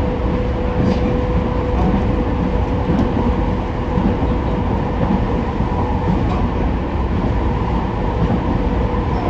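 JR East E231-0 series electric commuter train running at speed between stations, heard from inside the passenger car: a steady rolling rumble with a steady whine held throughout.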